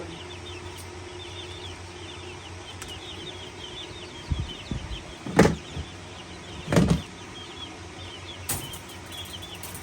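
Baby chicks peeping in many quick, high chirps over a steady low hum. About halfway through come three louder, short noisy bursts, like knocks or rustles.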